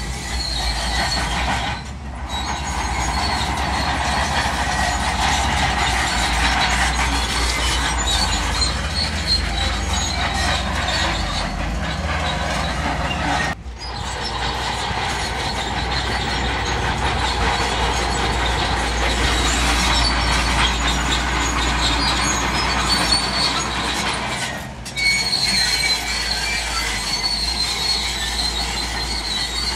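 Bulldozer working: its diesel engine running under a steady low rumble while the steel crawler tracks squeal and clank. The sound drops out briefly three times.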